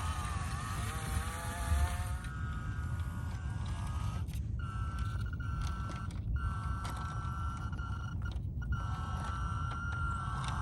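Electric drive whine of a WPL C24-1 RC crawler's 370 brushed motor and single-speed metal gearbox: a steady high tone that cuts out briefly three times as the throttle is let off and picked up again, over a low rumble. The tail of background music fades out in the first couple of seconds.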